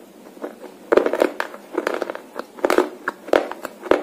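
Close-up crunching of a hard slate pencil being bitten and chewed. There is a run of sharp cracks and crunches, about eight of them, starting about a second in. The pencil is very hard to chew.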